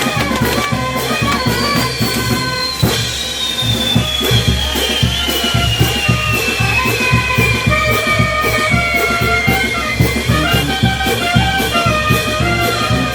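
Andean brass band playing with trumpets and a drum kit keeping a steady beat. Through the middle a thin high tone slides slowly downward for several seconds.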